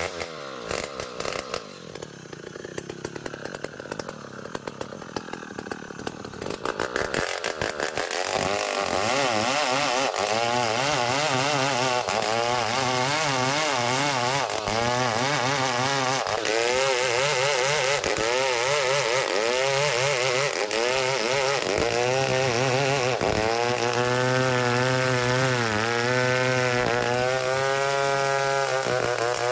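Chainsaw running unevenly at low revs for several seconds, then throttled up from about eight seconds in and running at high revs with its pitch wavering as it cuts through Bornean ironwood (ulin) to square a log into a beam.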